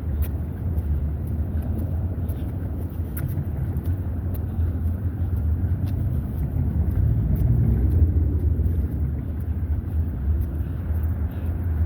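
Steady road traffic passing on a busy city street, a continuous low rumble that swells slightly about seven to eight seconds in.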